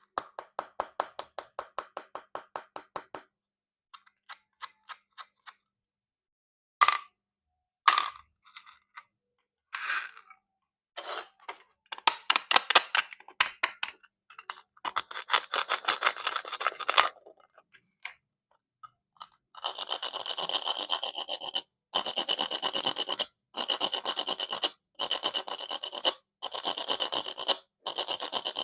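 Plastic fruit being cut and scraped with a knife. First comes a run of rapid clicking strokes, then a few single clicks. Near the end there is a string of dense scraping bursts, each about a second and a half long, with short gaps between them.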